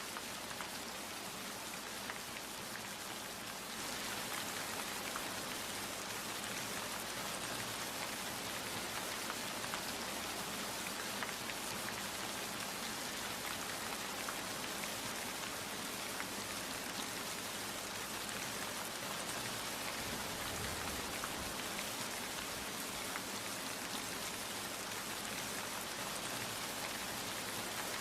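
Steady rain falling, with individual drops ticking through it; it grows a little heavier about four seconds in.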